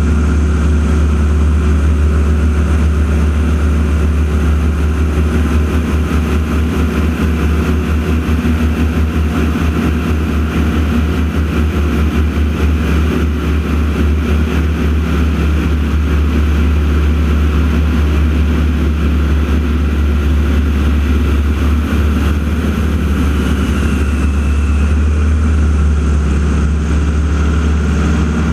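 Loud, steady drone of radial-engine propeller airplanes, the Aeroshell team's T-6 Texans flying their routine, with a strong low hum.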